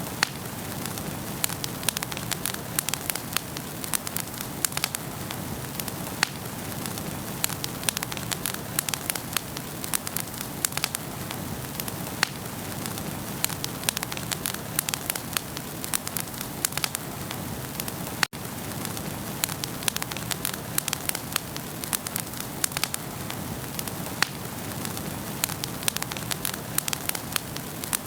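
Wood fire in a fireplace burning steadily, with frequent irregular crackles and pops over a low rush of flame. The sound cuts out for an instant about two-thirds of the way through.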